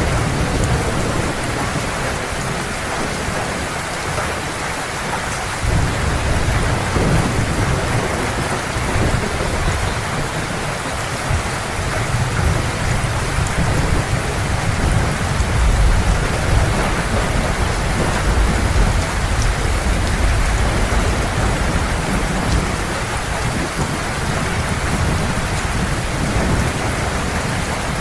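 Heavy rain pouring steadily, with a low rolling rumble of distant thunder that swells a few seconds in and again near the middle.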